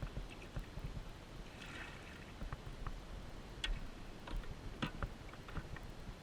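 Scattered knocks and clicks of gear being handled in a plastic kayak on the water, over a low rumble of wind on the microphone.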